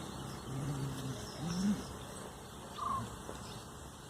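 A dog making a few faint, low vocal sounds, one of them rising in pitch. A brief high chirp comes about three seconds in.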